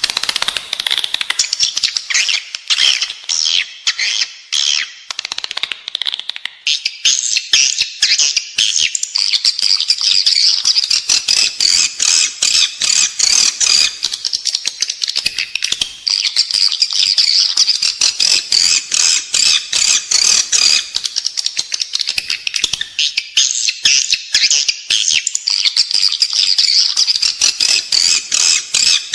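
Edible-nest swiftlets twittering in a dense, unbroken chorus of rapid high chirps and clicks, a little denser and higher from about seven seconds in. It is the indoor lure call played inside a swiftlet house to draw the birds in to roost and nest.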